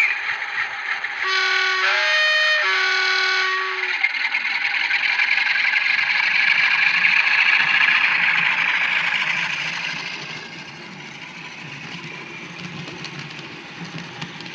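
Graham Farish N gauge Class 47 model's DCC sound decoder through its small onboard speaker: a two-tone horn sounds low, high, then low again. Then the diesel engine sound grows louder for several seconds and drops away about ten seconds in, leaving a quieter low running hum.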